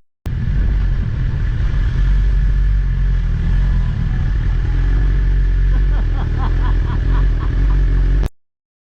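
Motor vehicle on the move: a steady, loud low engine and road rumble, with a quick run of short high chirps about six to seven seconds in, cutting off abruptly near the end.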